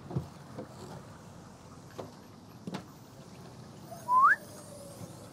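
A couple of light knocks over low background noise, then a short rising squeak about four seconds in.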